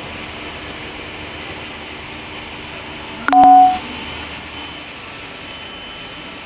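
Steady background rumble and hiss of a city street, with a short, loud two-tone beep about three seconds in that lasts about half a second.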